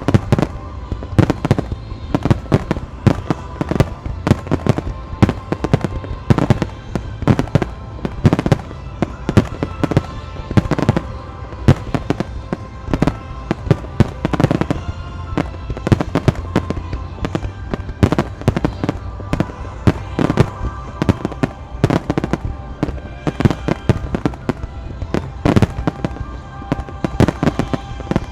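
Aerial fireworks display: a dense, irregular barrage of shell bursts and crackles, several a second, with music playing underneath.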